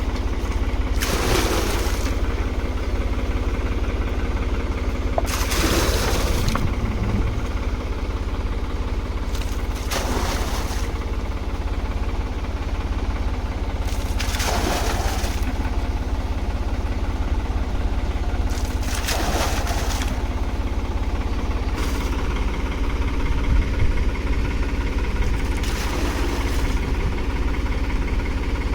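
An engine running steadily at idle, with a short rushing burst about every four to five seconds.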